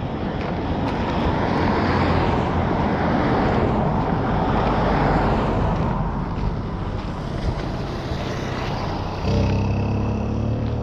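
Road traffic: a car passing, its tyre and engine noise swelling and then fading over several seconds. About nine seconds in, a second vehicle's engine comes in suddenly and louder.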